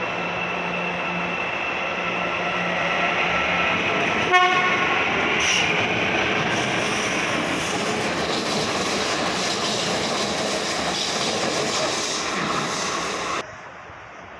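Electric metro train running through the station: a steady rail rumble with a faint rising motor whine, and a short horn blast about four seconds in. The train sound cuts off abruptly about a second before the end.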